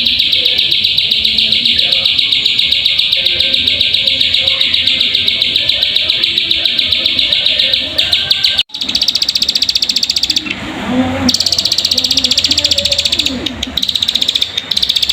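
Ciblek sawah (prinia) song played as a lure recording: a loud, fast, unbroken buzzing trill. It cuts out for an instant a little past halfway, then goes on as a higher, thinner rapid trill with short breaks near the end.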